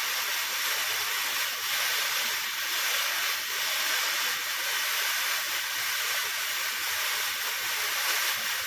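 Dyson hair dryer running loud and steady at its highest fan speed and highest heat setting, an even rushing hiss of air. It keeps running without cutting out at fan speed 3, the fault that shut it off before the repair.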